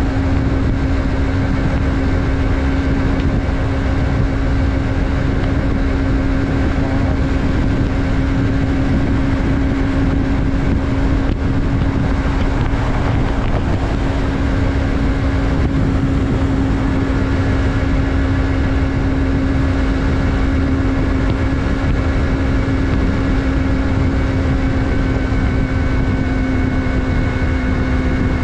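Yamaha MT-03's 321 cc parallel-twin engine running at a steady speed while the bike is ridden, its pitch holding constant, over a heavy low rush of wind on the microphone.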